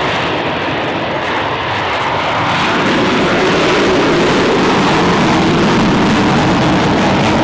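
Hino truck diesel engine running hard with a loud, steady roar that swells about three seconds in as it revs up, then holds.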